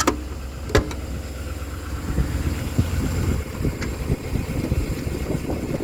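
Engine idling steadily, with two sharp clicks in the first second.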